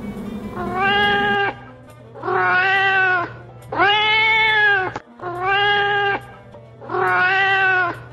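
A cat meowing five times at an even pace, each meow a drawn-out call about a second long, after a guitar music tail stops in the first second and a half.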